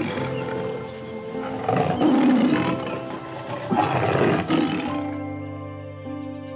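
Lion roaring three times, about two seconds apart, over steady background music; the roars stop about five seconds in.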